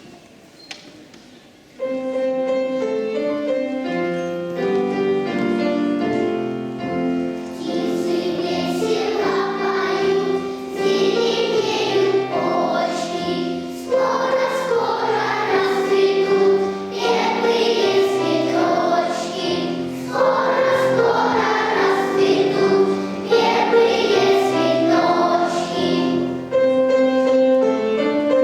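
Piano accompaniment starts about two seconds in, and a children's choir joins it singing a song at around eight seconds.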